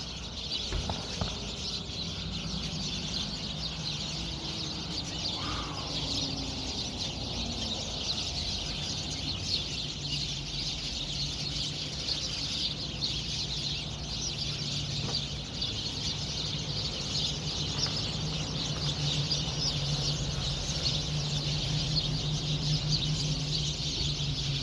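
A dense chorus of many small birds chattering and chirping together in a tree, unbroken throughout. Under it runs a low steady hum that grows louder in the second half.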